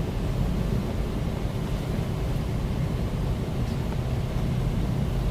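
Steady drone of a semi-truck's diesel engine with road noise, heard from inside the cab while driving.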